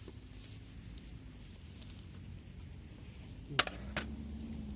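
An insect's steady, high-pitched trill that stops about three seconds in, then two sharp clicks about half a second apart, followed by a low steady hum.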